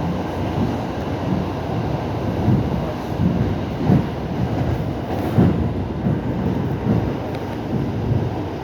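Suburban electric train running at speed, heard from inside the carriage: a steady low rumble of wheels on rail, with a few irregular knocks as the wheels cross rail joints.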